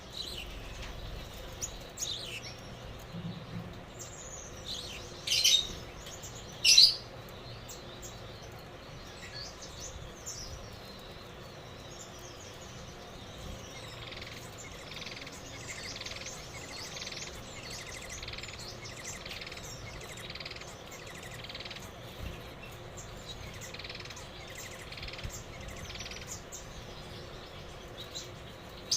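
Gouldian finch chirping: two loud, sharp calls close together near the start, then a long stretch of softer, rapidly repeated chirping notes.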